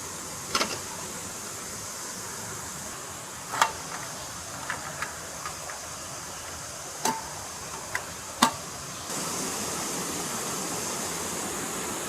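Steady rushing of a flowing stream, broken by several sharp knocks and clicks of things being handled, the loudest about eight seconds in. About nine seconds in, the rushing suddenly gets louder and brighter.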